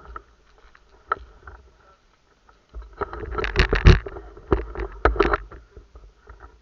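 Rustling and knocking close to the microphone with a low rumble, mostly between about three and five and a half seconds in, with a single sharp click about a second in.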